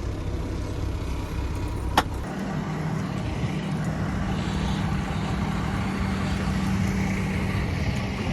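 Tractor-trailer's diesel engine running at idle. There is a sharp click about two seconds in, after which the engine settles into a steadier, slightly higher hum.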